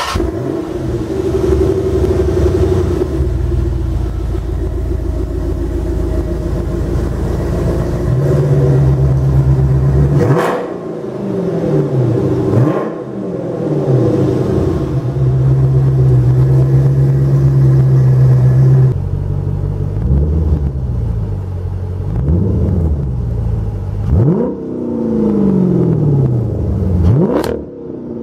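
Dodge Charger SRT8's 6.1-litre Hemi V8 running through a Corsa exhaust: a steady idle rumble, then held at higher revs for a few seconds at a time, then blipped again and again, each rev falling back toward idle.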